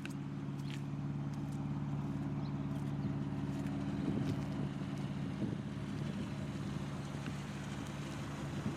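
Steady low mechanical hum heard from inside a car in an automatic car wash, with a few faint clicks and rattles.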